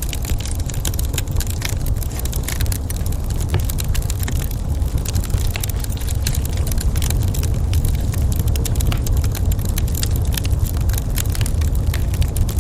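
Wood fire crackling in a fireplace: many sharp pops and snaps over a steady low rumble of the burning fire.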